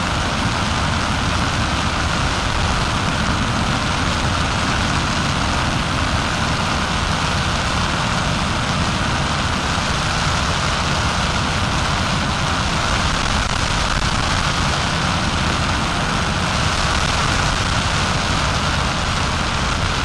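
Paramotor engine running steadily in flight, with a constant rushing noise over it.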